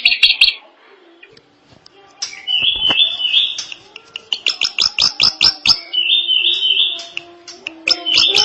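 Drongo singing in long phrases of rapid, repeated notes, with short pauses between phrases.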